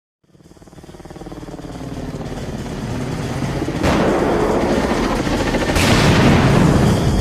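Helicopter rotor sound fading in from silence and growing steadily louder, with two heavy blasts about four and six seconds in, in a cinematic soundtrack mix.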